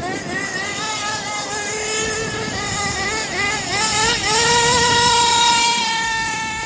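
Nitro RC car's small two-stroke glow engine running at high revs, its pitch wavering up and down, then rising about four seconds in and held high.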